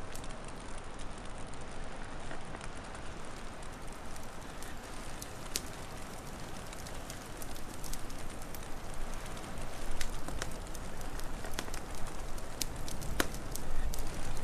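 Wood fire crackling, with sharp pops scattered over a steady hiss and low rumble of burning; the pops come more often in the second half.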